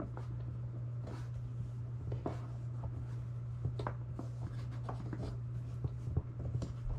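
Cable being wrapped by hand around the fish-finder shuttle's mount, making irregular short rubbing and rustling strokes over a steady low hum.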